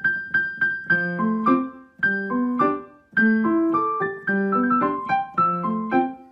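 Piano playing: phrases of struck notes and chords, each group starting sharply and fading, with a high note repeated over and over.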